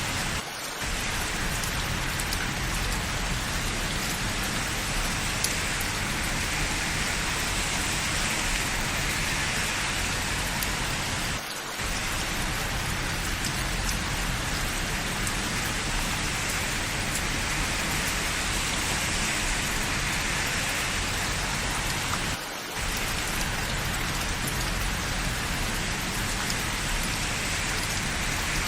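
Steady rain falling, an even downpour with no breaks in its pattern. The sound dips briefly three times, about eleven seconds apart.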